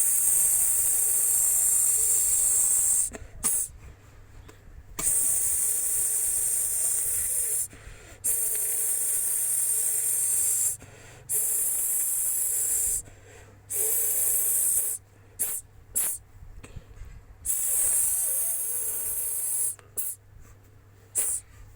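Loud snake-like hissing in about seven long bursts of two to three seconds each, with short pauses between them.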